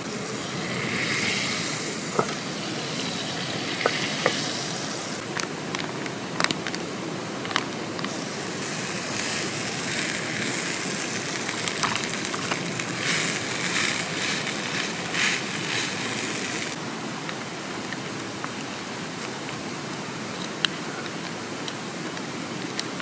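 Sizzling and crackling over a campfire, with scattered sharp pops, in two stretches of several seconds each, over the steady rush of a mountain stream.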